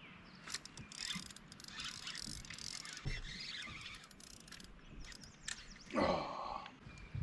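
Fishing reel being cranked and clicking in rapid, uneven runs while a bass is on the line, with a louder burst about six seconds in.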